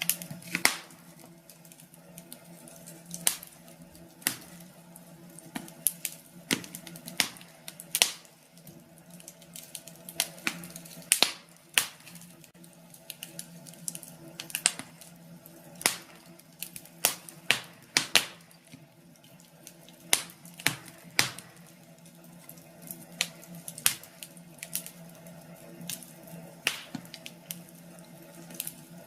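Wood fire in a fireplace crackling, with irregular sharp pops and snaps from the burning logs over a steady low hum.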